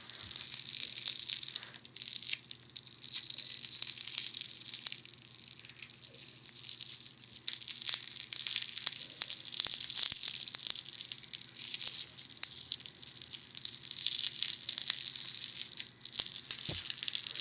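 Funny foam, a bead-filled foam clay, squished and worked right against a binaural dummy head's ear microphones: a dense, fine crackling that comes in uneven waves, with small pops through it.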